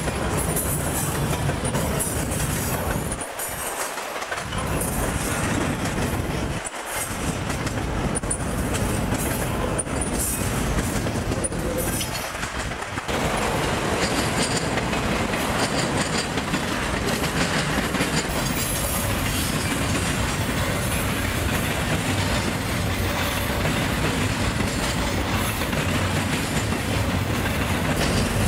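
Train rolling past, its wheels clattering steadily over the rails. The low rumble drops away briefly three times in the first half.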